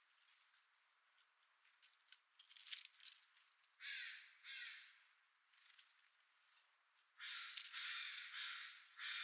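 Harsh, rasping calls of a corvid (crow or jay): two short calls about four seconds in, then a longer run of calls from about seven seconds.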